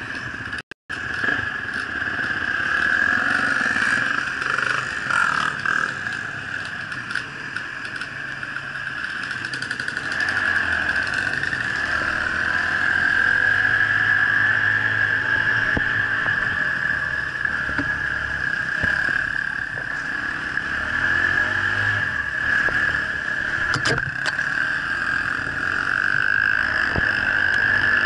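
Dirt bike engine running while riding, its level rising and falling a little with the throttle. The sound drops out briefly just under a second in.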